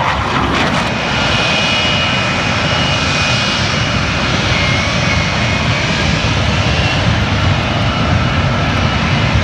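Jet aircraft engines running loud and steady, a continuous rushing noise with a faint high whine.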